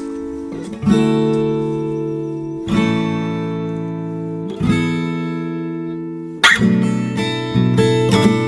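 Acoustic guitar strumming: chords struck roughly every two seconds and left to ring, then quicker, busier strumming from about six seconds in.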